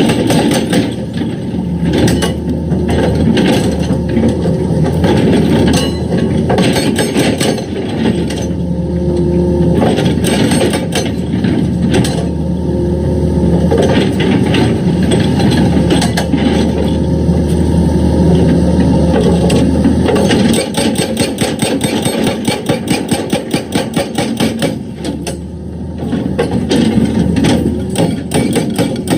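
Excavator engine running under load with clanking and scraping of steel on rock. About two-thirds of the way through, a rapid, regular hammering starts, breaks off briefly and starts again near the end.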